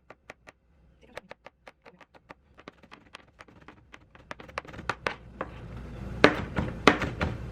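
Kitchen knife chopping peeled garlic on a cutting board: quick, even taps, about four or five a second, getting louder from about halfway through.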